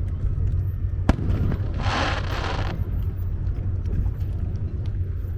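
Aerial fireworks going off: a sharp crack about a second in, then a hissing, crackling burst lasting about a second, over a steady low rumble.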